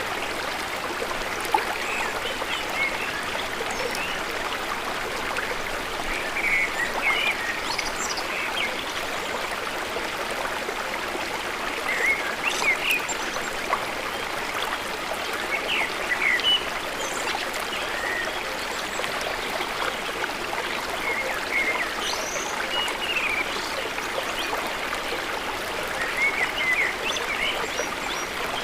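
A river or stream running steadily, with short bird chirps now and then.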